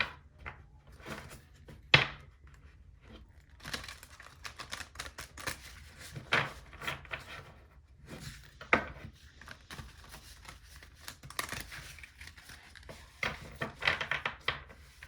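Tarot cards being shuffled and handled: papery rustling and riffling broken by sharp snaps of the cards, the loudest about two seconds in and again near nine seconds, with a busy flurry near the end.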